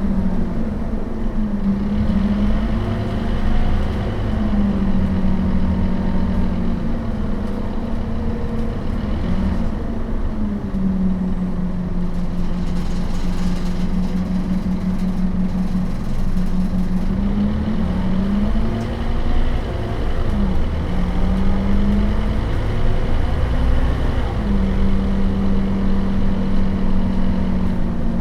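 Scania DC9 five-cylinder turbodiesel of a Scania K270UB bus running under way, its engine note falling and rising again several times.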